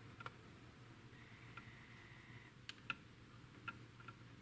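Near silence with a faint low hum and a few faint, scattered light clicks, typical of small objects being handled on a hobby bench.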